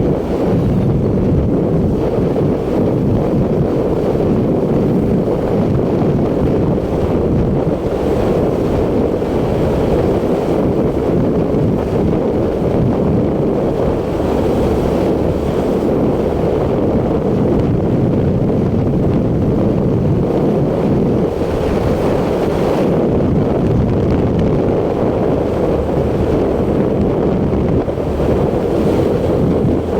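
Wind rushing over the microphone of a riding motorcycle: a loud, steady, low rumble that never lets up.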